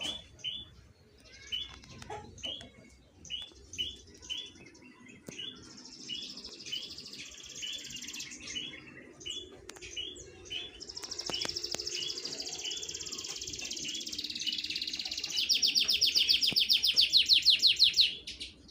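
Caged songbirds chirping: short calls repeated every half second or so, with stretches of thin high twittering song. Near the end a loud, fast trill runs for about three seconds and then stops suddenly.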